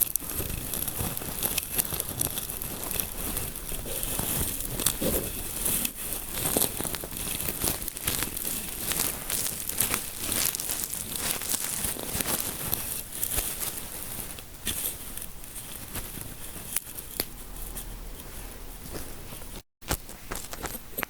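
Fingers scratching and rubbing through hair close to the microphone, a dense, crackly rustle of many small clicks, with a brief cut-out in the sound near the end.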